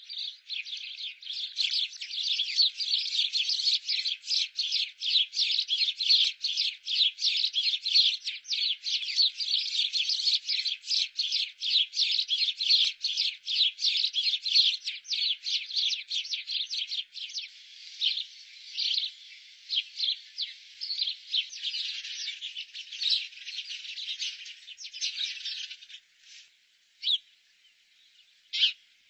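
Small birds chirping rapidly and continuously, several high chirps a second, thinning to a few scattered chirps near the end.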